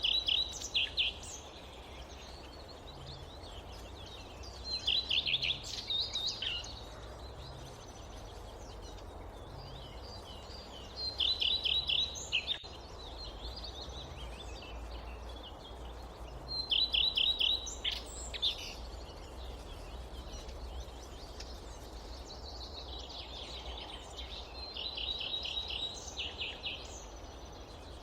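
A songbird in the forest singing a short, rapid phrase of repeated notes, about a second long, five times at intervals of five to six seconds, over a steady low rumble of ambient noise.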